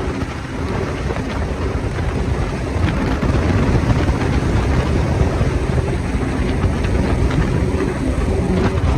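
Small speedboat (mini boat) running fast on the river: a loud, steady engine sound that gets louder over the first few seconds and then holds.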